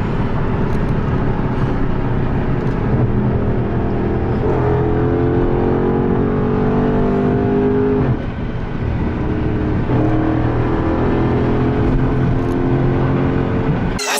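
Dodge Charger Scat Pack's 392 HEMI V8 (6.4-litre) accelerating hard. The engine note climbs steadily, drops back briefly about eight seconds in as it shifts up, then climbs again.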